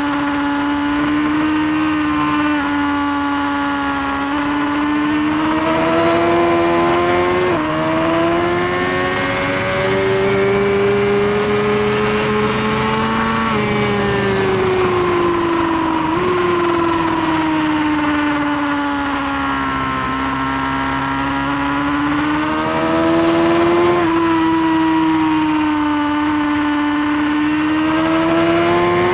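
Onboard sound of a 2018 Suzuki GSX-R1000R's inline-four engine at full track pace. Its pitch climbs and falls through the gears, with a few sudden drops at the shifts, over a steady rush of wind noise.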